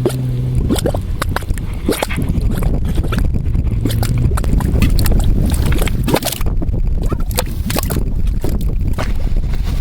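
Mud pot bubbling: gas bubbles burst through thick mud in irregular wet pops and gurgles over a steady low rumble.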